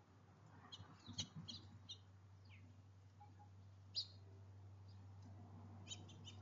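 Small birds chirping: a quick run of short, high chirps about a second in, a single chirp at about four seconds, and a few more near the end, over a faint low steady hum.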